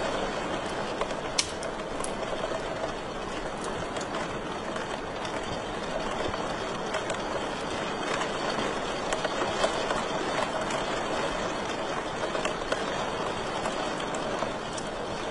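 Wood fire crackling in a fireplace: a steady hiss with scattered sharp pops and snaps, two of the louder ones about a second and a half in.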